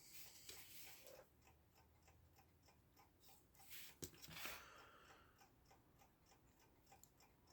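Elco electric clock movement running on the bench, giving a faint, rapid, even ticking just after fresh oiling, with a soft handling knock about four seconds in.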